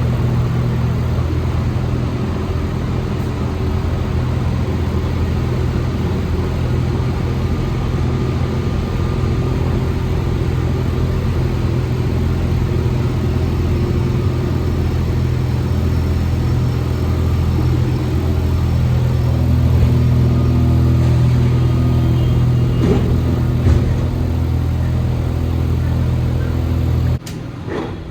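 Alstom NS-74 rubber-tyred metro car running, heard from inside the carriage: a steady low hum and rumble from the traction equipment and running gear. About 27 seconds in the hum cuts off abruptly and the sound drops much quieter.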